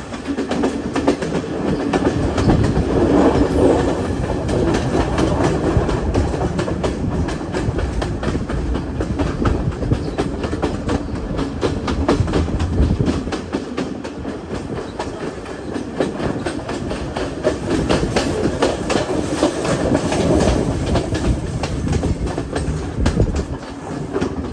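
Passenger train running along the track, heard from aboard: continuous clatter of the wheels over the rails and rattling of the carriage, with rapid clicks throughout.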